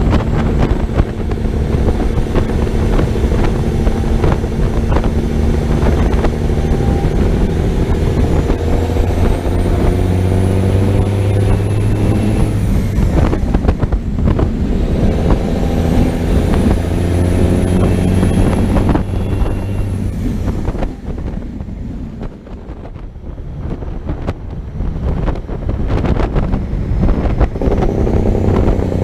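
Big diesel semi-truck engine pulling hard, climbing in pitch with a rising turbo whistle, dropping back once at a gear shift and climbing again, then easing off before building once more near the end.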